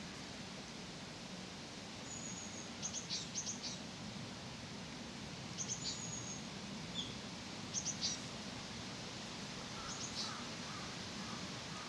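Small birds chirping: four brief clusters of quick, very high notes over a steady outdoor hiss.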